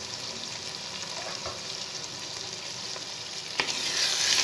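Chicken masala sizzling steadily in oil in a metal pot. About three and a half seconds in there is a knock as a wooden spatula goes in, and the stirring makes the sizzle louder.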